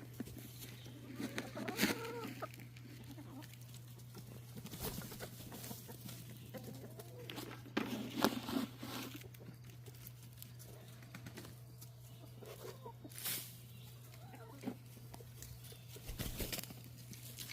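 Domestic chickens clucking softly now and then while they feed, with a few sharp clicks and rustles in between. A steady low hum runs underneath.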